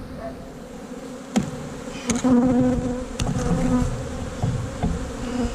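Honey bees buzzing around an open hive, the buzz swelling loudest for a couple of seconds midway as bees fly close. A few sharp knocks sound in between.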